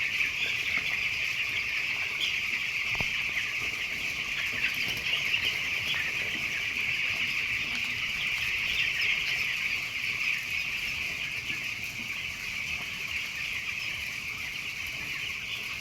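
A large flock of young chickens peeping all together in a dense, steady, high-pitched chorus of overlapping calls.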